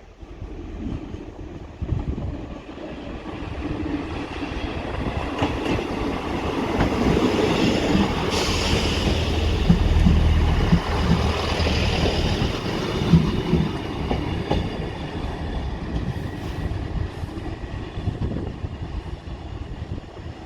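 A diesel multiple unit train going by, its wheels clattering over the rail joints; the sound builds to its loudest about halfway through and then fades away.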